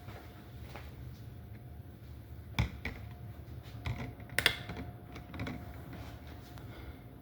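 Scattered light clicks and knocks, as of small objects being handled, over a low steady hum; two sharper knocks stand out, about two and a half and four and a half seconds in.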